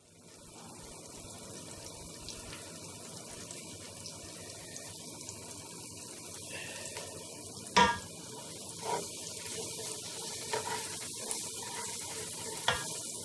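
Tomato puree, onions and seasoning frying in oil in a stainless steel pot, a steady sizzle, while a wooden spoon stirs and knocks against the pot a few times, the loudest knock about eight seconds in. This is the tomato base of jollof rice being fried to take away the puree's sourness.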